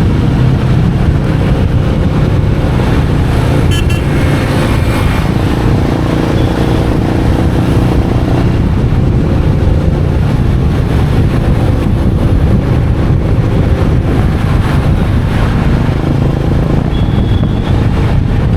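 Royal Enfield Meteor 350's single-cylinder engine running steadily under way, with road and wind noise. A brief high tone sounds near the end.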